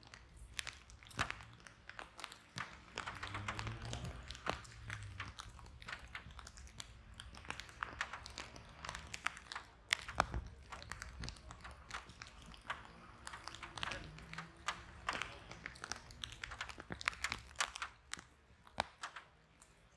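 Wood fire in a fireplace crackling, with irregular sharp pops and snaps throughout. A soft low rush of flame comes up a few seconds in and again around the middle.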